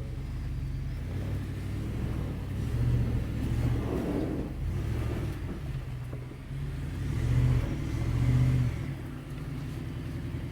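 Ford F-150 pickup's engine running low and steady as the truck crawls an off-road trail, picking up in short surges about three and four seconds in and again in a longer push near the end.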